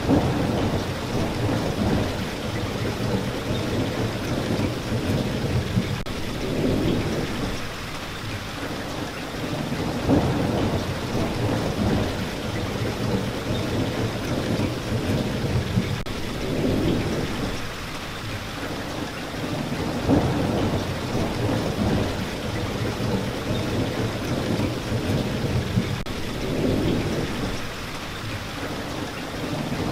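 Steady rain falling, with low rumbles swelling and fading every few seconds, like rolling thunder.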